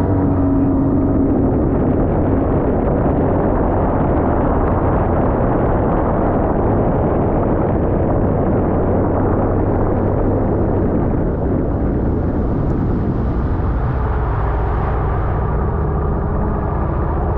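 Sea-Doo personal watercraft running under way, its engine note blended with a steady rush of water and wind noise. It eases off slightly about two-thirds of the way through.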